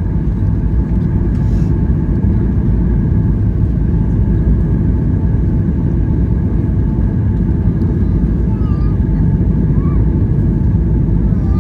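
Cabin noise inside a Boeing 737-900ER: a steady low rumble of the engines and airflow, with faint steady tones above it.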